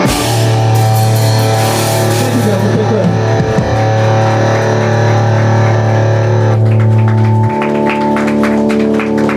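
Live rock band with distorted electric guitar and bass holding long sustained notes at the close of a song. The cymbal wash drops away about two-thirds of the way in, the lowest bass note stops soon after, and the rest of the chord rings on.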